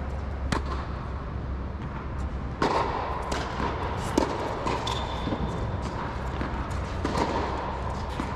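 Tennis balls being struck by rackets and bouncing on the court during a drill: sharp, irregular pops a second or so apart, over a steady low hum.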